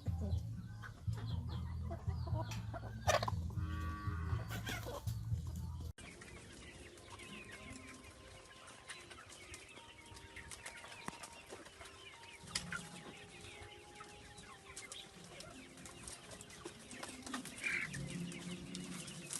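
Chickens clucking. For about the first six seconds a steady low hum runs underneath; then the sound cuts off abruptly to a quieter stretch of softer clucking with scattered light clicks.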